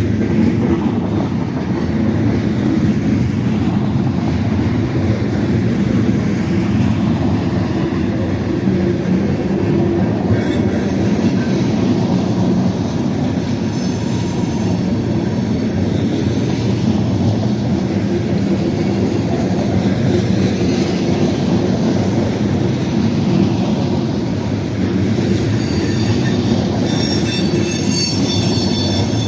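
Freight train cars rolling past with a steady, loud rumble and rattle of wheels on rail. High-pitched wheel squeal comes in near the end.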